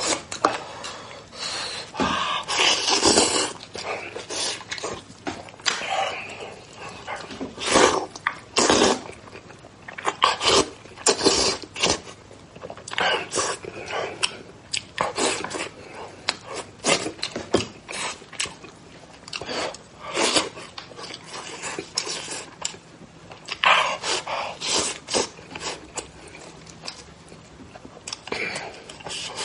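Mouth sounds of a man eating braised spicy lamb leg close to the microphone: chewing, biting and smacking in irregular bursts.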